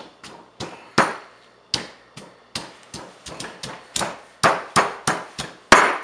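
Pestle pounding chopped rhizome in a mortar: a run of sharp strikes, about three a second, with a short pause about two seconds in, growing louder near the end.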